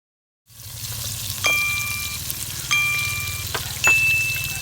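Food frying in a pan with a steady crackle, cut in abruptly, and three sharp metallic clinks that each ring for most of a second.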